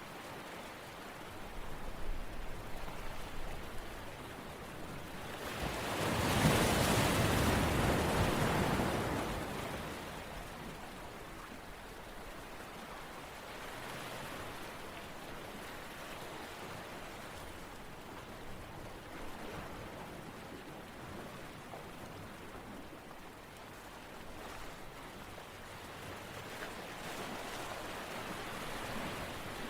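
Steady rushing water sound that swells loud for a few seconds about six seconds in, then settles back.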